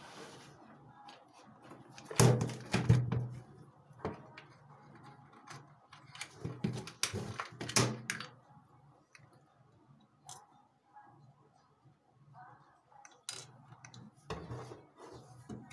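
Scattered clicks and knocks of small tools and objects being handled on a workbench, loudest about two to three seconds in and again around seven to eight seconds.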